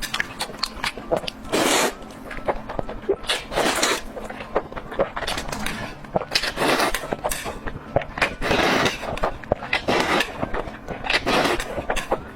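Close-up eating sounds: wet chewing clicks and lip smacks, broken by several short noisy bursts of about half a second each.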